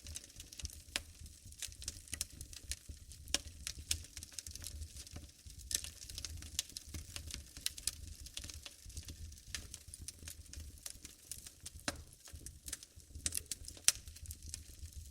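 Wood fire burning in a fireplace, crackling with frequent irregular pops and snaps over a low rumble; one sharper pop stands out near the end.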